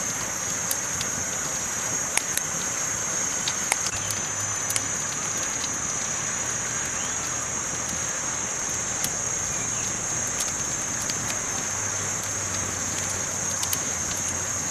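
Campfire burning, a steady crackling hiss with scattered sharp pops from the burning wood.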